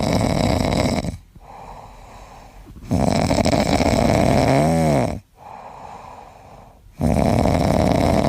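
A pet snoring loudly: three long snores, one about every three seconds, with quieter breaths between them. The middle snore carries a brief whistle that rises and falls.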